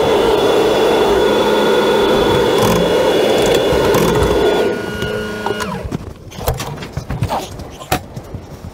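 A motor or engine running steadily, then winding down and stopping about five seconds in, followed by a few scattered knocks and clicks.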